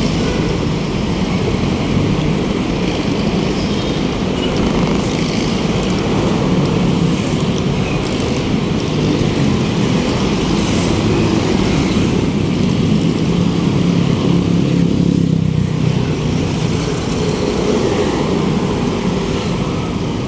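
Steady city road traffic, cars and other motor vehicles running alongside, heard from a moving bicycle.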